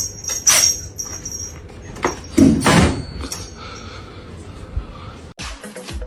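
A few sudden knocks and a longer scraping or rustling noise, with a thin high tone at the start. Near the end, dance music with a steady beat comes in.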